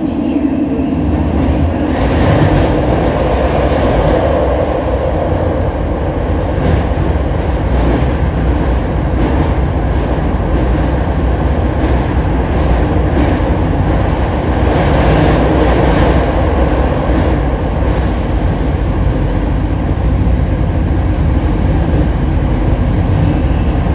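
Hokushin Kyuko electric train 7055F running along the line: a steady rumble of wheels and motors, with faint clacks from the rails now and then.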